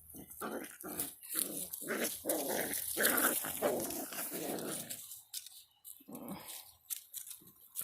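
Border Collie puppies play-growling as they rough-house, a quick run of short growls for about five seconds, then one more growl about a second later.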